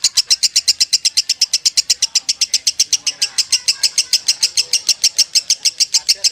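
Lovebird singing a long unbroken 'konslet' ngekek: sharp chirping notes repeated very fast, about ten a second, without a break.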